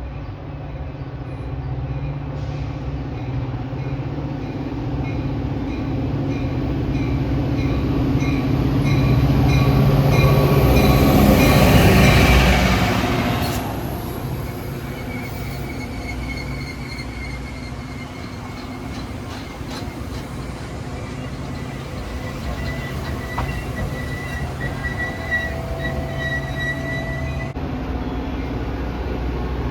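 Diesel commuter train pulling into the station. It grows louder to a peak about twelve seconds in as it passes close, then settles lower with a steady high squeal as it slows.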